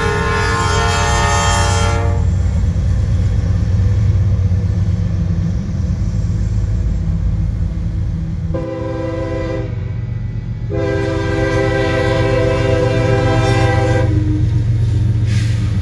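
Train locomotive horn sounding a chord of several tones at once, over the steady low rumble of the train. A blast cuts off about two seconds in; after a pause come two more blasts close together, the second longer.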